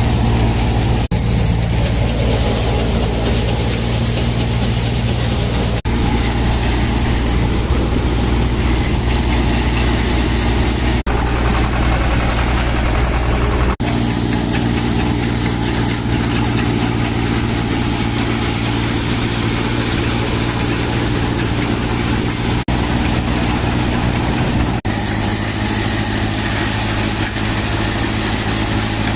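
SAME 36 DI tractor's two-cylinder direct-injection diesel engine running steadily, its note shifting twice.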